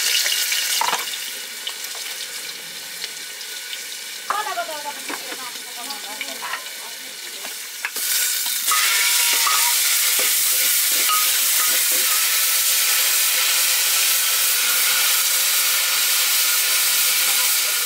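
Food sizzling in hot oil in a pan as it is stirred. The sizzle eases off after about a second and comes back loud about eight seconds in, holding steady.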